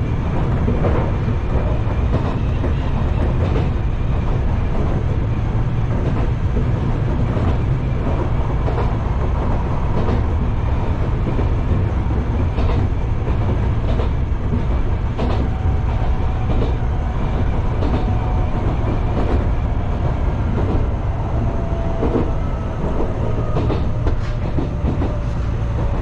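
Enshu Railway 2000-series electric train running along the line, heard from inside the front car: a steady low rumble with the wheels clicking over rail joints at irregular intervals. A faint whine slowly falls in pitch through the second half.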